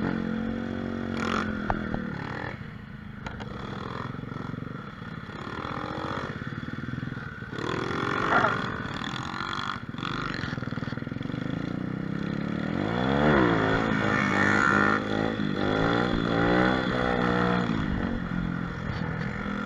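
Mini motorcycle (pit bike) engine running under the rider, revving up and down several times in quick succession in the second half.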